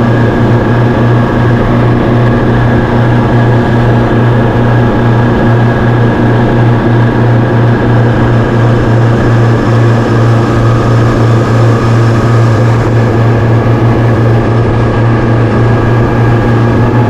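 A boat's engine running steadily, a loud, even drone with a strong low hum.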